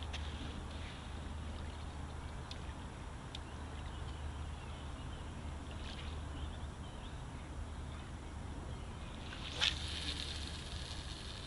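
Steady riverside background noise from wind and water, with a few light clicks of fishing tackle being handled and one sharper click about ten seconds in, while a bottom fishing rod is rigged.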